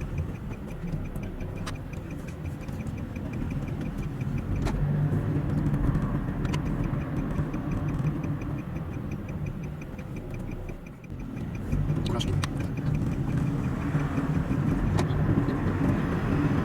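Car driving on the road, a steady rumble of engine and tyre noise, sped up to double speed. A regular fast ticking runs through most of it, with a few sharp clicks.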